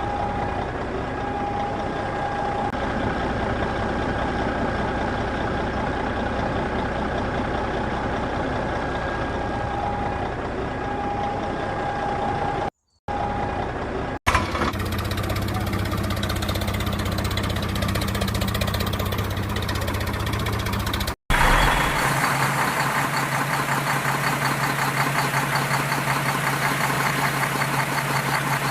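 Mini tractor running steadily, its motor noise changing at edit cuts about 13, 14 and 21 seconds in.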